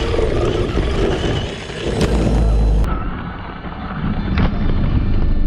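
Traxxas Slash RC truck running through mud and snow: a loud, noisy mix of motor and spinning tyres, with a heavy thud and low rumble about two seconds in.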